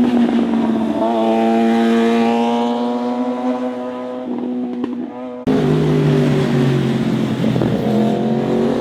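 Motorcycle engines running at high revs as bikes pass: one engine held at a high, steady pitch that sags slightly, then an abrupt switch about five and a half seconds in to a deeper-pitched engine whose revs climb near the end.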